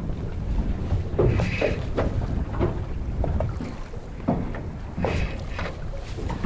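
Wind buffeting the microphone over a steady low rumble, with small waves slapping irregularly against the hull of a small drifting boat.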